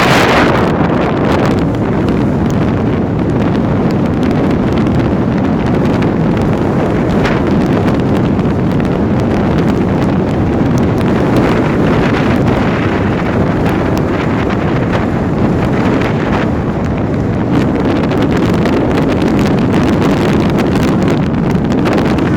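Wind buffeting the microphone from a moving vehicle, a steady rushing noise over low road and engine rumble.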